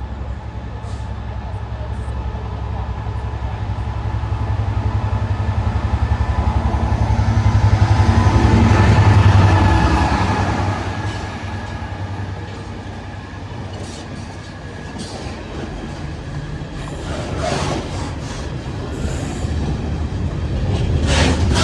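Class 66 diesel-electric freight locomotive hauling a freight train past at speed: its engine rumble swells to loudest about nine seconds in and then eases, followed by the wagons rolling by with wheel clatter.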